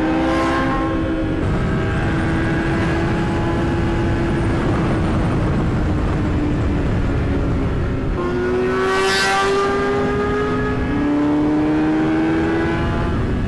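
Yamaha R6 inline-four sport bike engine running at high revs under way, with wind rushing past. Its pitch sags slowly for the first eight seconds, jumps up about eight seconds in, and climbs again near the end.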